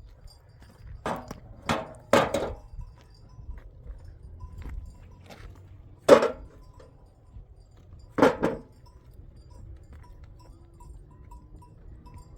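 Sharp knocks of hard objects striking: a quick run of three about a second in, then single louder ones about six and eight seconds in, over faint background noise.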